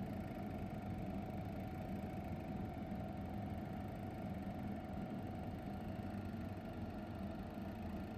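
A motor running steadily: a low hum with a fainter, higher steady tone above it.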